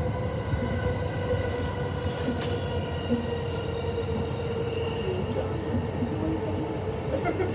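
Electric train running at steady speed, heard from inside the car: a continuous rumble of wheels on rail with a steady whine, and now and then a faint click.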